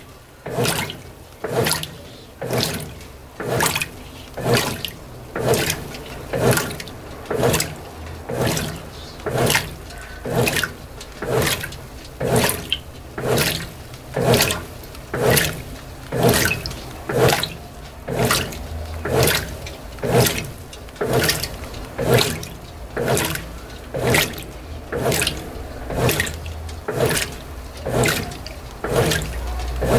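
Brastemp BWT12 top-loading washer agitating a load of delicates on its turbo agitation profile. The agitator swishes back and forth with a regular slosh of water about three times every two seconds, over a low motor rumble.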